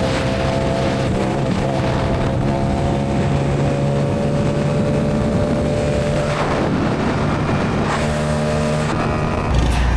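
Motorcycle engine running at highway speed, heard from the bike itself with a steady hiss of wind noise. The engine note shifts a few times, most clearly about six and a half seconds in, and a heavy low rumble comes in near the end.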